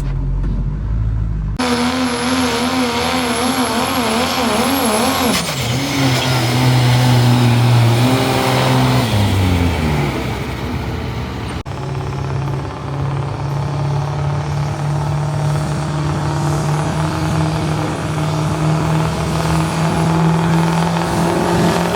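Diesel pickup truck engine working hard under load during a truck pull, its revs wavering, with a high turbo whistle that drops away about five seconds in and the revs falling off a few seconds later. After a cut, an engine runs hard at a steady pitch.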